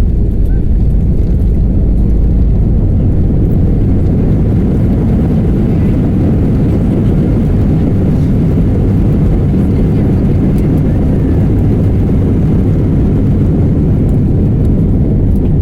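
Loud, steady low rumble inside the cabin of an Airbus A320 in flight or on the landing roll: engine and airflow noise, even throughout with no surge.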